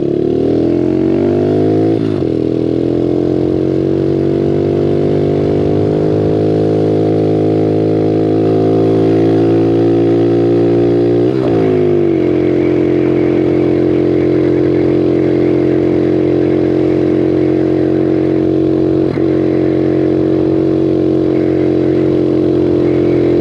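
Bigfoot 125 pit bike's single-cylinder four-stroke engine running under way. The revs climb at first, dip briefly twice (about two seconds and about eleven seconds in), then hold steady.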